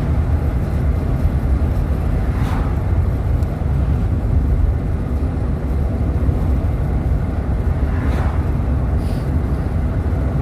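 Steady road and engine rumble inside a moving car's cabin while driving, with brief swells of hiss about two and a half seconds and eight seconds in.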